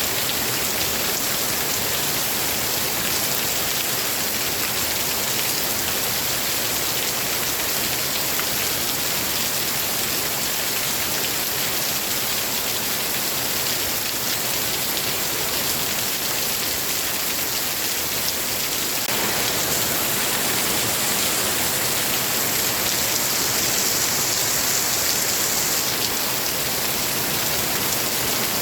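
Steady, heavy rain falling, growing a little fuller and louder about two-thirds of the way through.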